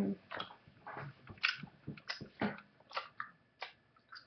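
A person chewing a soft, sticky mango Hi-Chew candy with the mouth open: wet smacks and clicks, irregular, about two a second.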